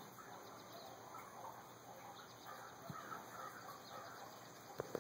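Faint outdoor background with scattered distant bird calls, and a couple of soft knocks, one midway and one near the end.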